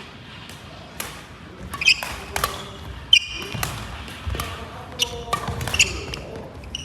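Badminton rally on an indoor court: sharp, irregular racket-on-shuttlecock hits, with court shoes squeaking on the floor in between.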